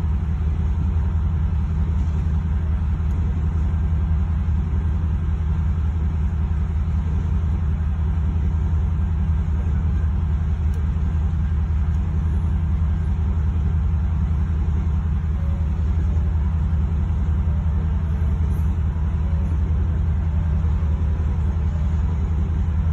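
Steady low rumble of a loaded coal train's hopper cars rolling past a grade crossing, heard from inside a stopped car's cabin.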